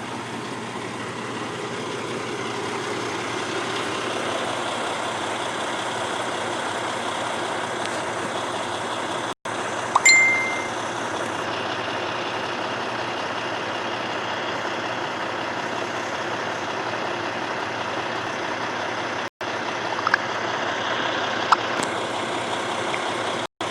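Truck engine running steadily under a wide hiss, with a sharp knock and a brief high ding about ten seconds in and a few small clicks near the end. The sound cuts out abruptly three times.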